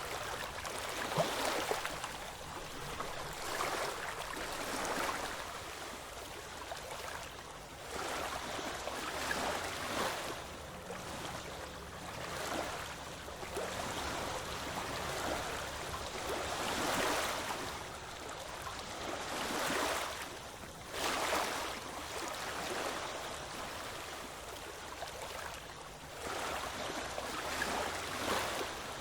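Ocean waves breaking and washing ashore, a steady rush that swells and falls back every few seconds.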